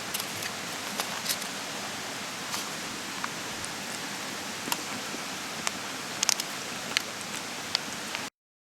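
Open wood campfire crackling: scattered sharp pops and snaps over a steady hiss, cutting off suddenly near the end.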